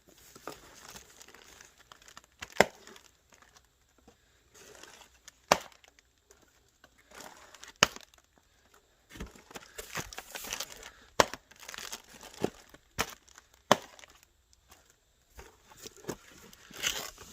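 Cardboard box and packaging being opened and handled: paper and plastic rustling and crinkling, with several sharp snaps and knocks.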